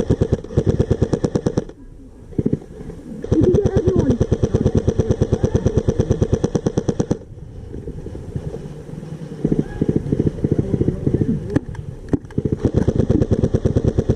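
Electric airsoft rifle firing full-auto bursts, a rapid even stream of shots. There is a short burst at the start, a long one of about four seconds, scattered shorter bursts after it, and another burst near the end.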